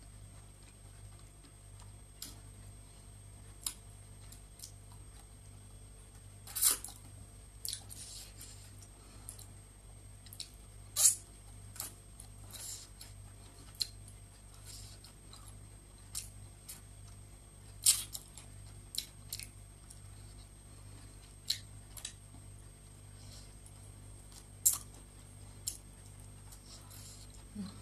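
Close-miked eating with the mouth: chewing with wet lip smacks and clicks every second or two, a few of them much louder, over a steady low hum.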